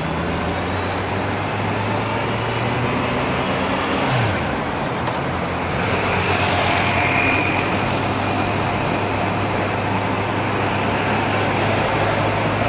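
Honda CB650F's inline-four engine running steadily at low speed, with road noise of surrounding city traffic.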